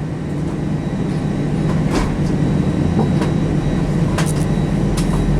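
Steady low hum inside an Airbus A319 passenger cabin on the ground, with a deeper rumble that grows from about two seconds in and a few light clicks.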